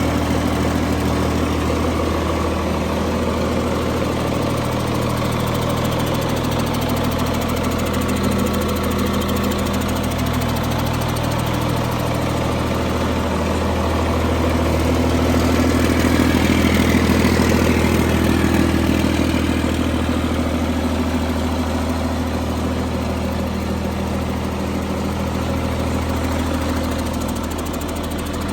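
Caterpillar C9 inline-six diesel truck engine running steadily at idle, swelling slightly louder for a few seconds in the middle.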